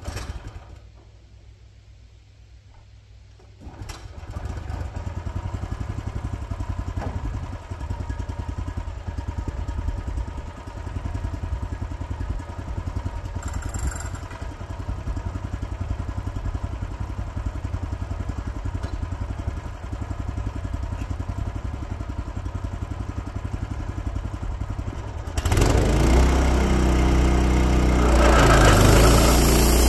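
Wood-Mizer sawmill engine starting about four seconds in and running steadily, then jumping to a much louder run near the end.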